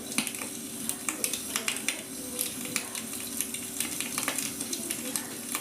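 Wood fire crackling, with a steady hiss and many irregular sharp pops and snaps.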